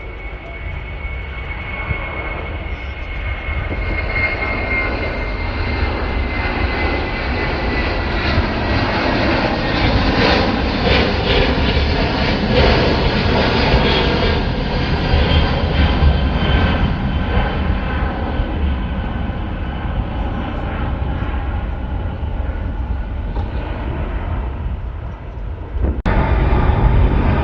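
Jet airliner's engines during takeoff: a loud rumble that swells and then eases off, with a high whine slowly falling in pitch. Near the end it changes abruptly to a louder low rumble.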